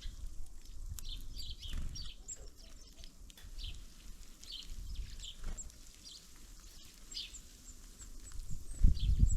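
Small songbirds at a winter feeder giving many short, high chirps and calls throughout. Near the end a louder low rumbling with a few knocks sets in.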